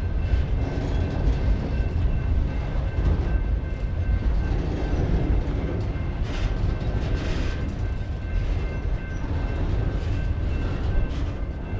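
BNSF freight train of auto rack cars rolling slowly past, a steady low rumble with a faint steady high whine over it and a couple of brief louder swells about six and seven seconds in.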